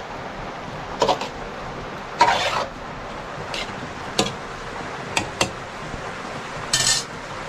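Scattered short knocks and clinks of objects being handled, with a longer scrape a little over two seconds in and another near the end, over a steady hiss.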